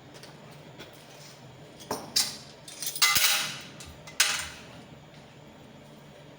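Small metal parts or tools clinking and clattering against a hard surface: a handful of sharp clinks between about two and four and a half seconds in, the loudest cluster just after three seconds.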